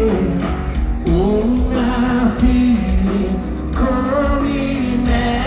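A rock band playing live, with a voice singing long, drawn-out notes over the band.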